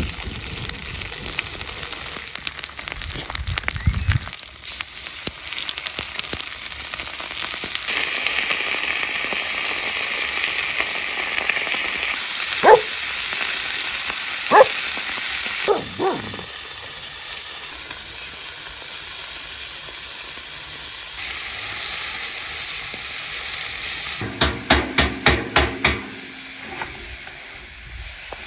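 Food sizzling in hot fat over a fire: a steady hiss with a few sharp pops. Near the end comes a quick series of about seven knocks.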